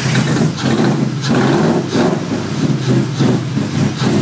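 Freshly built engine of an S197 Ford Mustang running loudly just after start-up, its idle note surging unevenly, before any tune.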